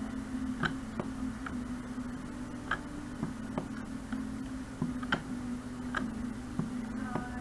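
Computer mouse clicking at uneven intervals, roughly once a second, over a steady low electrical hum.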